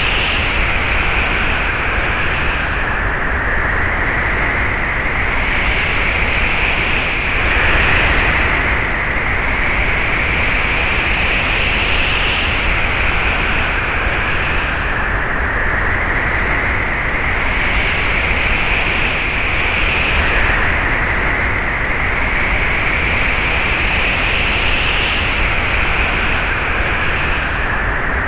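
Wind sound effect: a steady rush of wind with a high whistling band that slowly rises, swells and falls back every few seconds.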